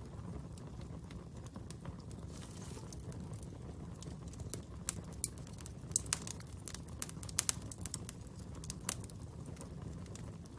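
Wood fire crackling over a steady low rumble, with sharp pops that come thicker around the middle.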